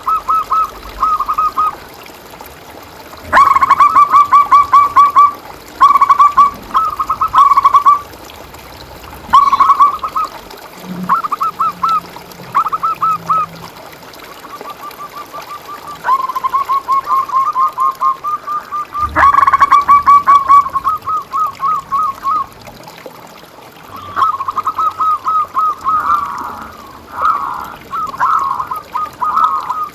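Zebra doves (perkutut) cooing: phrase after phrase of rapid, short cooing notes, each run lasting a second or two with brief pauses between.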